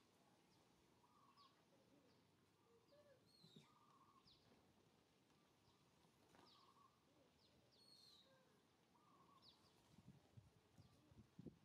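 Faint bird calls: scattered short, high chirps and a shorter, lower call repeated every second or two, over a quiet outdoor background.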